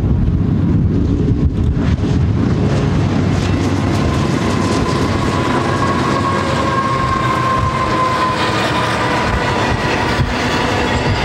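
BNSF freight train led by GE C44-9W diesel locomotives passing close by. A loud, steady low rumble of the engines under power gives way to double-stack container cars rolling past. From about four seconds in a high thin whine sounds over the rumble and falls slightly in pitch.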